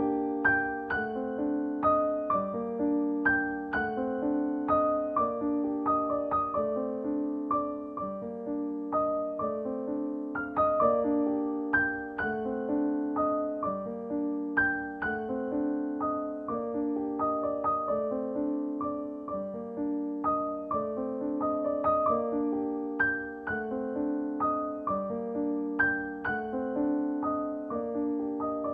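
Background piano music: a gentle, evenly paced run of repeated piano notes.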